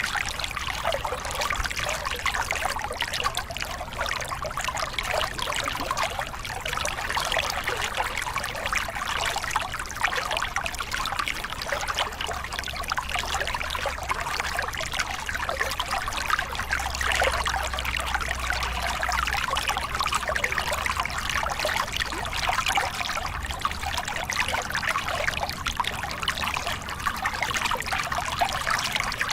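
Small river cascade: water spilling and splashing steadily over rocks in a continuous, even rush, with a faint low rumble underneath.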